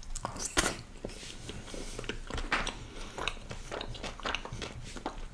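A person chewing a mouthful of food close to the microphone: a run of irregular short clicks and mouth noises, several a second.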